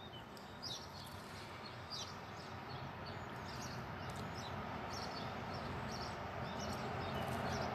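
Small birds giving short high chirps about once a second over a faint steady outdoor hiss.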